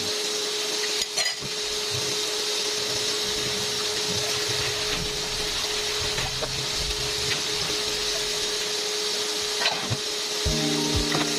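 Coated chicken pieces frying in hot oil in a pan: a steady sizzle, with a steady tone underneath and a light click about a second in.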